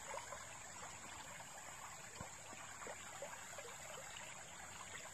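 Faint trickling of shallow creek water running over a gravel bar.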